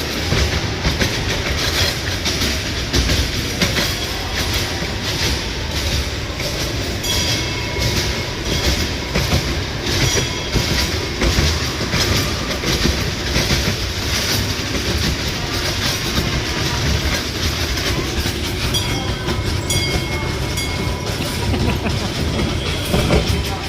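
A train running on its rails: a steady rumble with a rhythmic clickety-clack of the wheels over the track joints, and faint high-pitched tones now and then.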